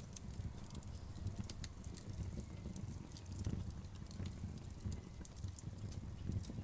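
Wood fire burning with a steady low rumble and frequent irregular sharp crackles and pops from the logs.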